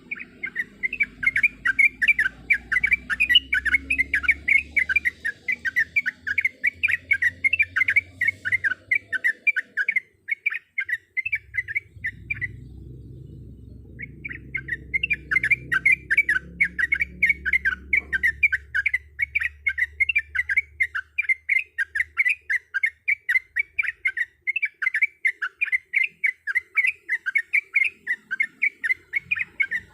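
Trucukan (yellow-vented bulbul) singing a fast, even run of short, repeated notes, about three to four a second, breaking off for a second or two midway before going on.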